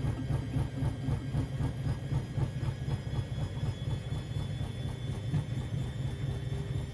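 Siemens Extraklasse XLs 140 A washing machine running: a low, rapidly pulsing rumble from the turning drum and motor. A faint high motor whine comes in about three seconds in.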